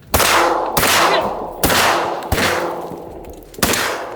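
Four shotgun blasts from duck hunters firing at ducks: three in quick succession over the first two seconds and a fourth near the end, each trailing off in a long rolling echo.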